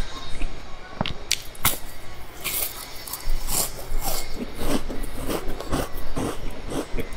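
Close-miked eating of a round sesame-crusted baked cake: a few sharp bites, then crisp crunching, then a steady run of moist chewing and lip smacks, about three chews a second.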